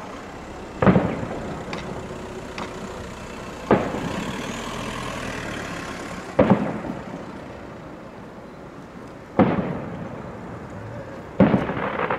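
Aerial firework shells (Kugelbomben) going off: five loud bangs about three seconds apart, one of them a close double, each rolling away in a long echo.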